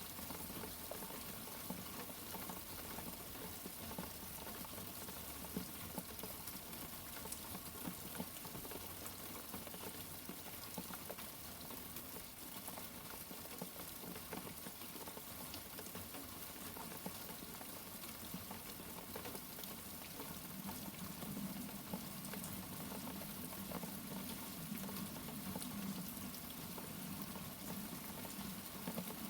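Steady rain, a dense even patter of drops, with a low rumble coming up under it in the last third.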